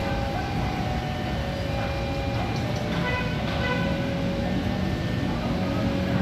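Railway station ambience: a steady rumble and hum from trains, with an electric commuter train standing at the platform. A short higher tone sounds about three seconds in.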